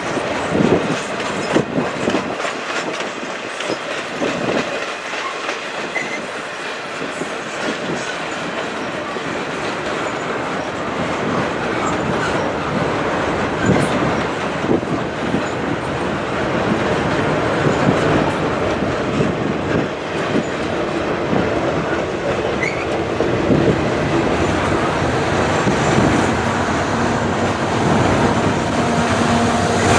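Double-stack intermodal container train rolling past at speed, its wheels clicking steadily over the rail joints. Near the end a steady diesel engine drone builds as a mid-train locomotive draws close.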